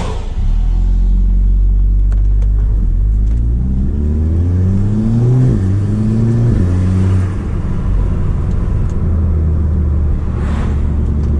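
Audi S3 8P's turbocharged 2.0 TFSI four-cylinder, fitted with an aftermarket downpipe, pulling uphill: it drones steadily, then revs up with its pitch climbing, dropping sharply, climbing again and falling back. A short rush of noise near the end.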